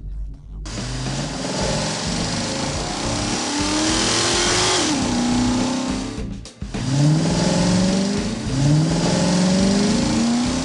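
Cartoon car engine sound effect revving in rising sweeps, about four times, over a steady hiss-like noise, with a brief drop-out about two-thirds of the way through.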